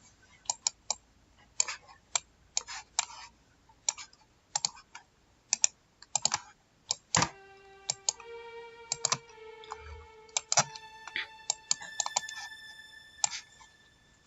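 Computer keyboard and mouse clicks, irregular, throughout. From about seven seconds in, held electronic notes at several pitches sound along with the clicks, as a synth "shine" layer is played in.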